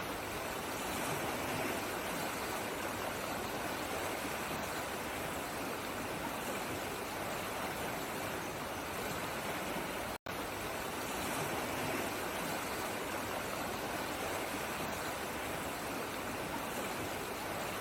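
Running water rushing steadily, as from a stream or waterfall, broken once by a momentary silent gap about ten seconds in.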